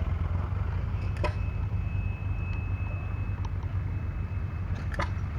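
Steady low mechanical rumble, like an engine running, with a thin high whine that comes in about a second in and a couple of faint clicks.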